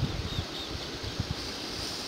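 Steady rush of flowing river water with wind buffeting the microphone. Two faint high chirps about half a second in.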